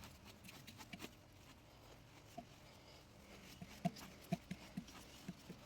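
Faint light clicks and taps from a motorcycle roller chain and parts being handled as the chain is wiped down, with most of the taps close together about four to five and a half seconds in.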